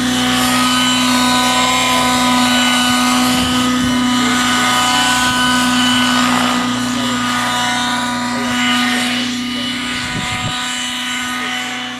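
Nitro-powered Synergy N9 RC helicopter in flight, its engine and rotors holding a steady pitch, easing slightly in loudness near the end.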